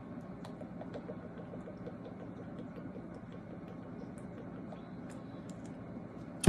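Low steady room noise with faint scattered ticks, and one sharp click right at the end.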